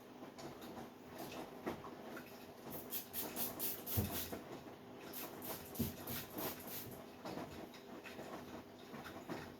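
Beko 10 kg washing machine on a quick wash: the drum turns a load of bedding and towels, wet laundry sloshing and tumbling in a run of quick swishes and knocks over a steady motor hum, busiest in the middle.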